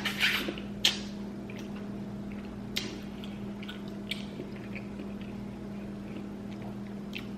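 Wet chewing and mouth sounds of someone eating a seafood boil in butter sauce: a few louder smacks in the first second, then sparse small clicks and squishes.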